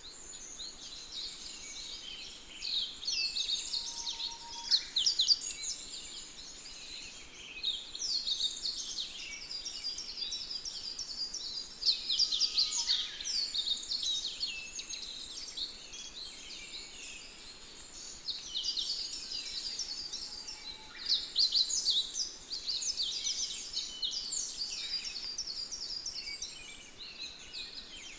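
Dense chorus of many small birds, overlapping high chirps and quick down-slurred notes without pause.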